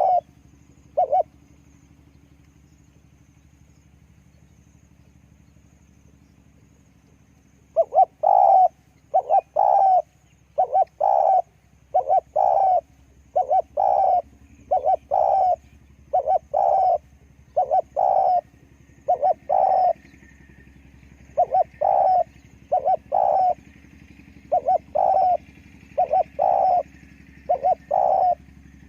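Spotted dove cooing: two short coos at the start, a quiet stretch of several seconds, then from about eight seconds in a long run of short repeated coo notes in clusters of two or three.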